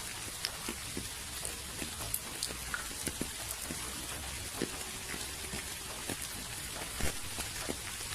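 Steady rain with scattered individual drops ticking and tapping on a surface, one heavier drop hit about seven seconds in.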